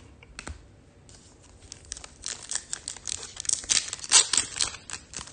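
Foil trading-card pack wrapper being torn open and crinkled, starting about two seconds in and growing louder.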